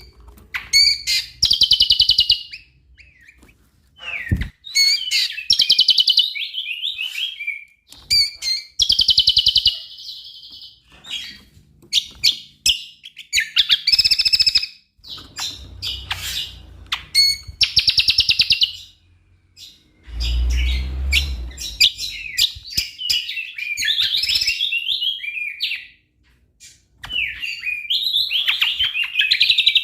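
Cucak kombo singing energetically in repeated phrases of rapid high trills and warbles, each a second or two long with short pauses between. A low knock comes about four seconds in and a low rumble about two-thirds of the way through.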